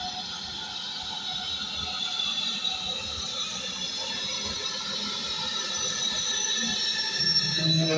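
A train running past on the railway, growing slowly louder, with a high steady ringing from the wheels on the rails. Near the end a low pitched tone sounds for about a second.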